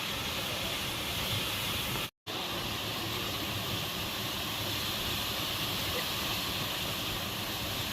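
Waterfall: a steady rush of falling water, cut off for a moment about two seconds in.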